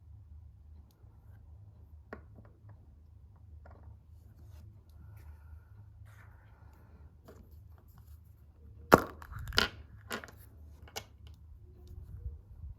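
Surprise egg being handled and opened, with scattered small clicks and rustles. About nine seconds in come four sharp cracking snaps in quick succession, the loudest sounds, over a steady low hum.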